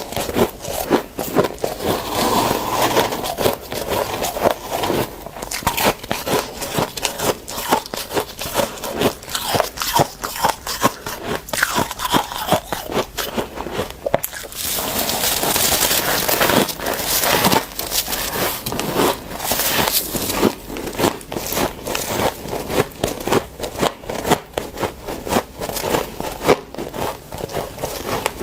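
Dry, squeaky deep-freezer frost crunching as it is bitten and chewed, a rapid run of crisp crunches, with a couple of longer stretches of dense crackling about halfway through as the frost is crushed.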